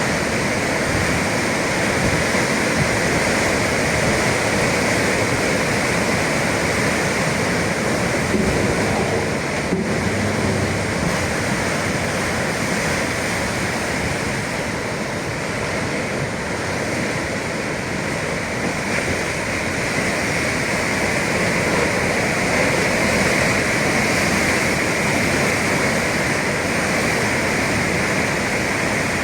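Atlantic surf breaking continuously along the shore: a steady rushing of water with no single wave standing out.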